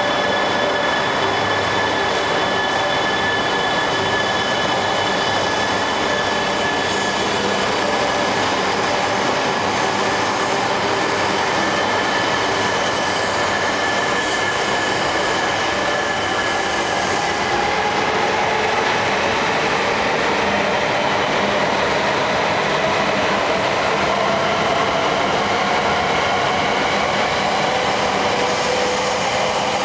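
Coupled E3 and E5 series Shinkansen train pulling out of the station and running past close by, with a steady rushing rumble of wheels and running gear. Several whining tones ride over it and rise slowly in pitch through the second half as the train gathers speed.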